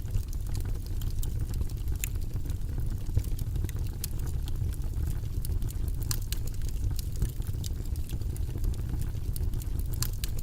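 Steady low, rumbling white-noise ambience track, with scattered light clicks from desk work over it.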